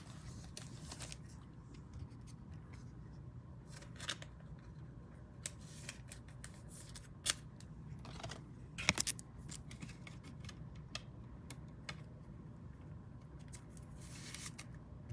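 Handling of trading cards and their packaging: scattered small clicks and snaps, a few bunched together about halfway through, over a low steady hum.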